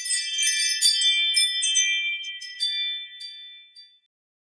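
A bright, tinkling jingle of many high ringing bell-like tones with light clicks among them, lasting about four seconds and fading away near the end.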